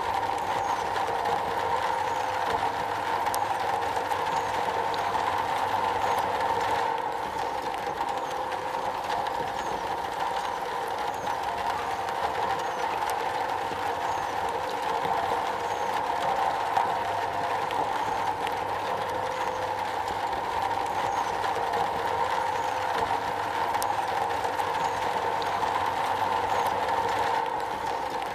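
Steady rain falling on a metal roof, a dense even patter without pauses.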